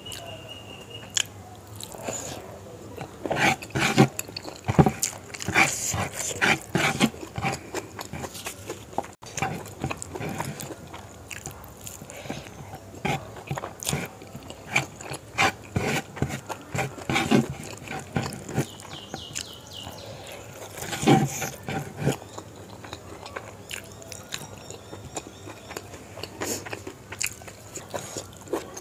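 Close-miked eating sounds: a person chewing and crunching spicy chicken gizzard and liver curry, with wet mouth smacks and crackles in an irregular rhythm, the loudest bites about four to six seconds in and again around twenty-one seconds.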